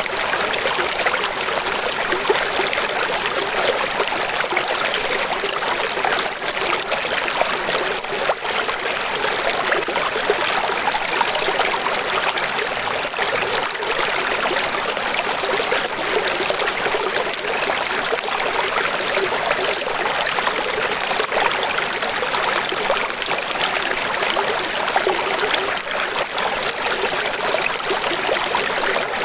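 Steady running water: a constant splashing hiss that stays even throughout, with little deep rumble underneath.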